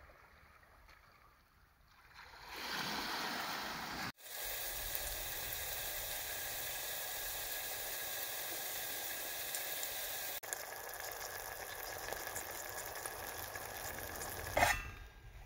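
Red pepper strips frying in oil in a small pot over a backpacking gas stove: a steady sizzle with fine crackling, which starts a couple of seconds in and breaks off abruptly twice. A brief louder sizzle comes near the end.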